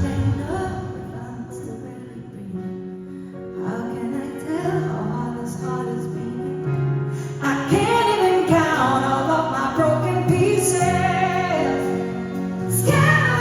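Live pop ballad performance: a female lead singer with band accompaniment, softer about two seconds in and then building to a fuller, louder passage.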